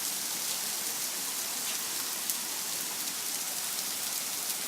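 Heavy rain pouring down steadily in a downpour, a dense even hiss with a couple of faint ticks.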